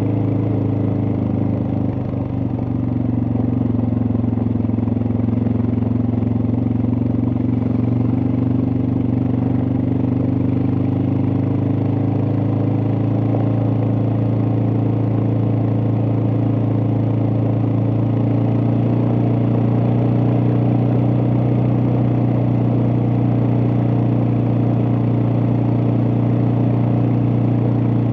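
Suzuki DR650's single-cylinder four-stroke engine running steadily while riding, with a brief dip in level about two seconds in before it settles back to a steady note.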